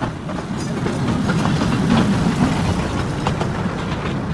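Miniature park train rolling past close by: a steady rumble of wheels on rails that swells midway as the locomotive and open carriages go by, with a few light clicks.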